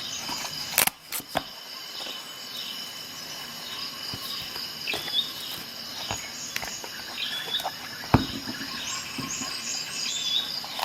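High-pitched chirping in the background, with a short chirp repeating every couple of seconds, and a few sharp clicks, about a second in and again about eight seconds in.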